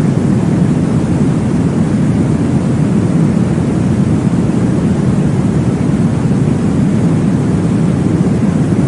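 Womb-sound white noise: a steady, deep whooshing rush like blood flow heard in the womb, even in level throughout.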